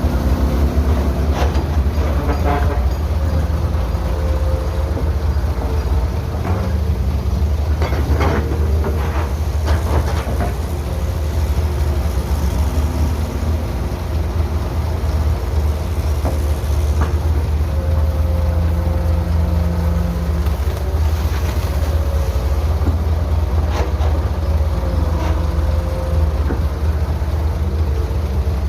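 Heavy diesel engine of an excavator at work, running steadily with a deep rumble, with a few short clanks and knocks now and then.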